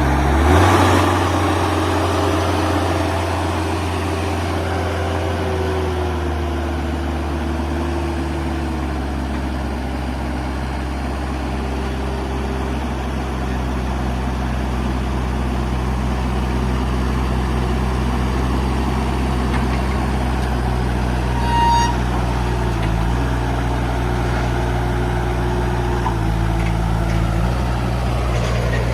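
The diesel engine of a Moffett M55 truck-mounted forklift idling steadily, just after starting; its pitch eases down over the first several seconds as the idle settles. A brief beep sounds about two-thirds of the way through.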